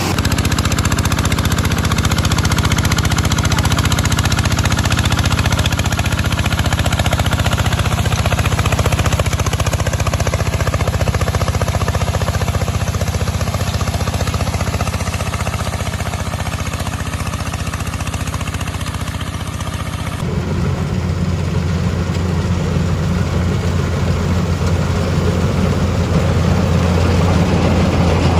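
Tractor engine running steadily under load. About two-thirds of the way through, the sound changes abruptly to a deeper, louder engine.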